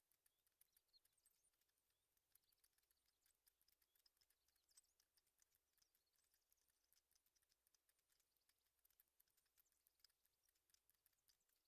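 Near silence, with faint high bird chirps and many soft scattered clicks.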